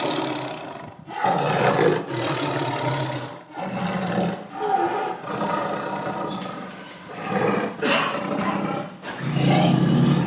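A large wild animal calling loudly over and over: a run of about six rough, drawn-out calls, each a second or two long, with short breaks between them.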